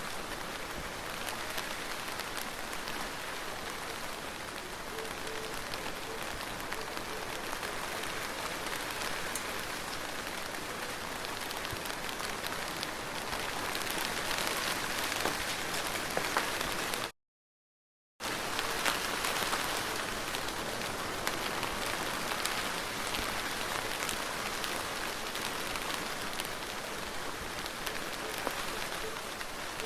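Soft rain falling steadily, an even hiss with many small drop ticks. About 17 seconds in, the sound cuts out completely for about a second, then resumes.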